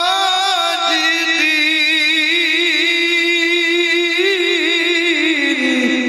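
Male qari's voice in Quran recitation (tilawah), holding one long melismatic note with wavering ornaments and turns. It steps down slightly in pitch and begins to fade at the very end.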